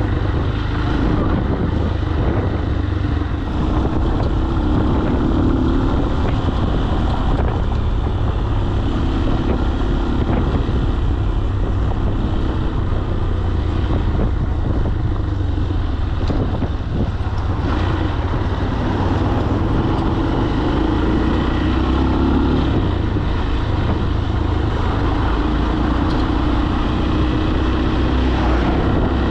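Falat 200 cc single-cylinder motorcycle engine running under way, its note swelling and easing a little several times, with a heavy low rumble of wind over the microphone.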